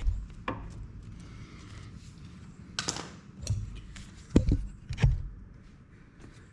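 Several sharp knocks and clunks of hand tools and parts being handled during work on the ATV, the loudest two coming a little past the middle, over a low background rumble.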